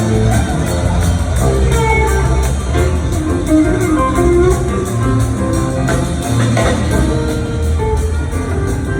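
Rock band playing live in an instrumental jam: a guitar lead over bass and a steady cymbal-driven drum beat.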